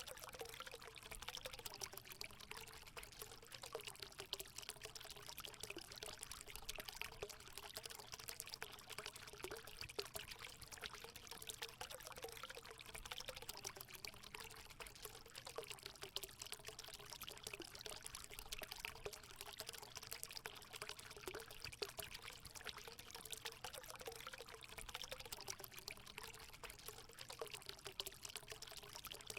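Water pouring steadily into a hot spring pool, a faint continuous splashing and trickling with a wavering gurgle.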